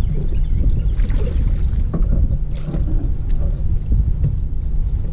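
Steady low rumble of wind and boat noise on the microphone, with scattered sharp knocks and splashes as a big blue catfish is worked alongside the boat toward the landing net.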